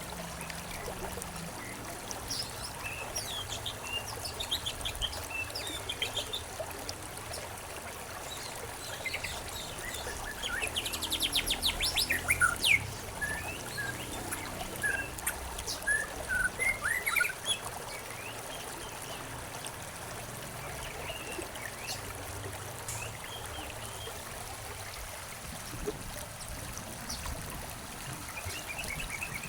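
Small songbirds chirping over the steady trickle of a stream, with a fast trill about eleven seconds in and a run of louder separate chirps a few seconds after it.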